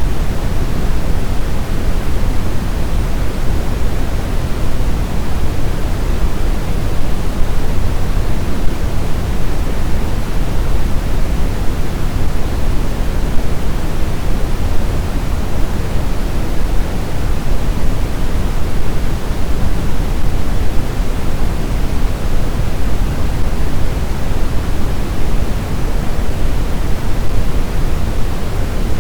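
Steady snowstorm wind noise: a deep, even rush, heaviest in the low end, with no distinct gusts or howls.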